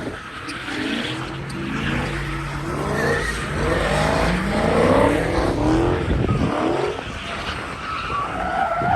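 Car engines revving up and down again and again while tires spin and screech on the pavement, with a sustained tire squeal near the end.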